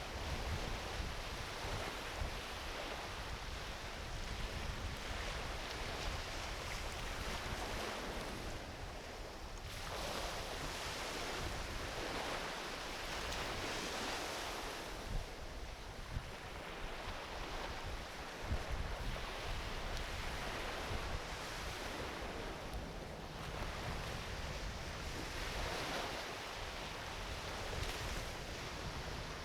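Gentle ocean waves washing onto a beach, a hiss that swells and fades every few seconds, with a few sharp pops from a driftwood campfire and a low wind rumble on the microphone.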